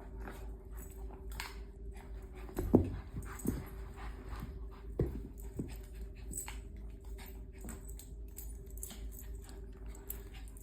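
A dog whimpering in a few short, falling cries, the loudest about three seconds in, over scattered clicks and a steady low hum.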